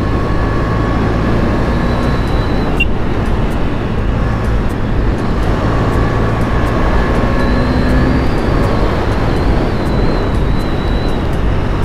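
KTM 250 Duke motorcycle's single-cylinder engine running steadily as the bike rides along, with road noise.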